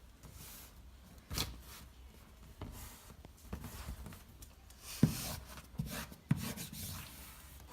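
Sheets of sulfite paper being handled and rubbed against cardboard boxes: irregular rustling and scraping with a few sharp knocks, the loudest about five seconds in.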